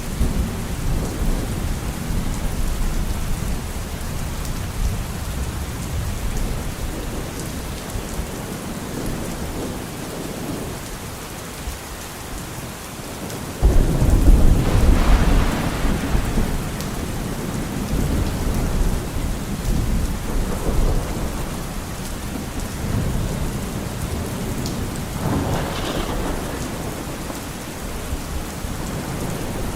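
Steady rain with low rumbling thunder. About halfway through, a sudden loud thunderclap breaks in and rumbles away over several seconds, and a lighter crack of thunder follows near the end.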